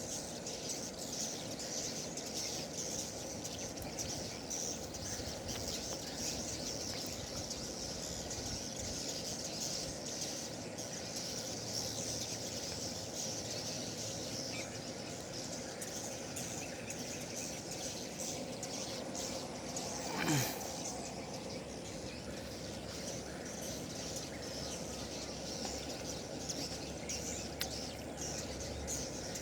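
Steady chorus of swiftlet chirps, a dense high twittering of many rapid calls at the swiftlet house. About two-thirds of the way through, a brief sweep rising sharply in pitch stands out as the loudest moment.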